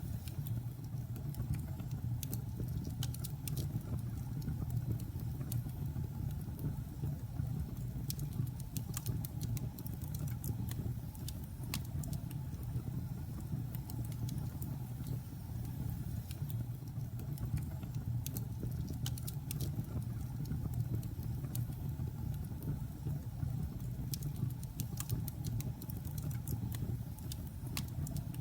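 Logs burning in a fireplace: a steady low rumble with frequent sharp, irregular crackles and pops of the burning wood.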